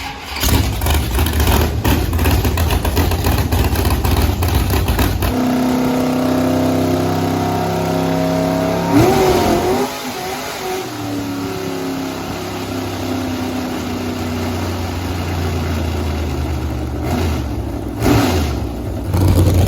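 10.3-liter big-block V8 at full throttle on a chassis dyno, then off the throttle about five seconds in and running down steadily, with two loud throttle surges near the end. The engine is running rich, with too much fuel in the tune.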